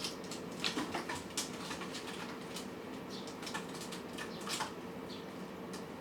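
Cats and kittens eating from dishes: small irregular clicks and ticks of chewing and bowl contact, over a faint steady hum.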